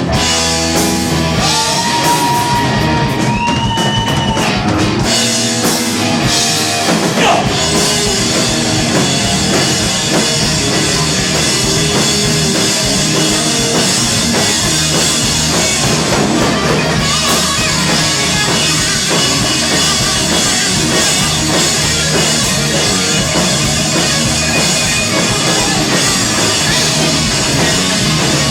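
Live rock band playing an instrumental passage: loud drum kit and distorted electric guitar, with held, bending guitar notes in the first few seconds.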